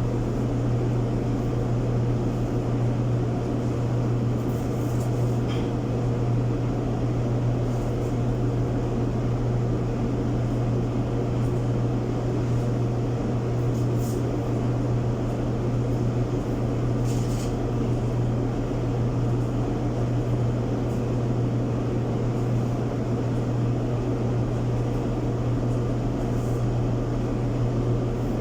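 Clothes dryer running steadily with a constant low hum, its drum turning on a newly replaced housing bearing.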